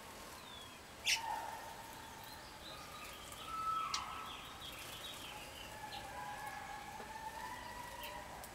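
Wild songbirds calling outdoors: held and gliding whistled notes with a run of quick chirps near the middle. A sharp click about a second in is the loudest sound.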